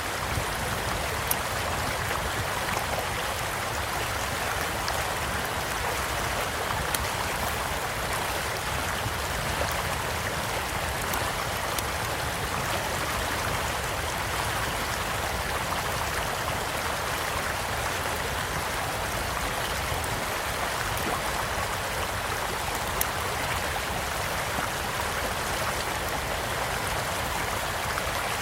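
A small stream running steadily, with the occasional sharp crackle and pop of a wood campfire.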